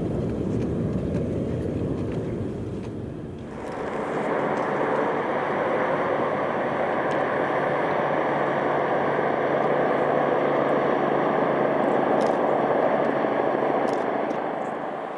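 Aircraft engine noise: a low rumble, then about three and a half seconds in it changes abruptly to a brighter, fuller engine sound with a steady hum that holds on.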